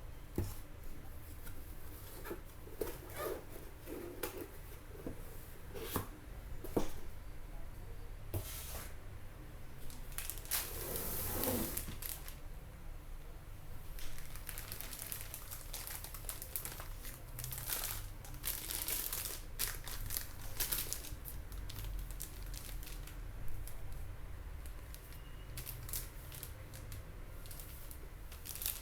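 Motherboard packaging being handled: irregular crinkling and rustling with occasional sharp clicks, over a steady low hum.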